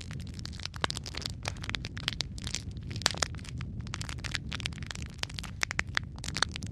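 Wood logs burning in a fireplace, crackling and popping irregularly over a steady low rumble of the flames, with a sharper pop about three seconds in.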